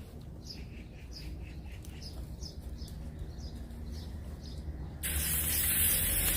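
A small bird calling outdoors with short, repeated downward-sliding chirps; about five seconds in, a louder steady hiss starts suddenly and covers the calls.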